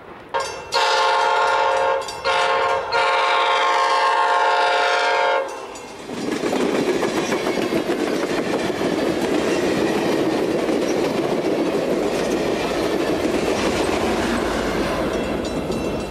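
Amtrak passenger train sounding its multi-tone air horn in three blasts, the last the longest, then passing close by with steady wheel and rail clatter and rumble.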